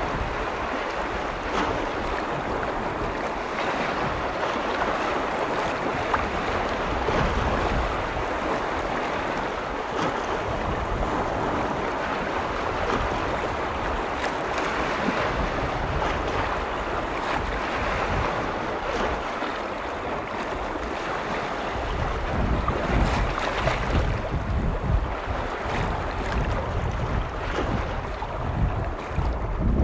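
Lake waves washing steadily against the shore. About two-thirds of the way in, wind begins to gust on the microphone with a low rumble.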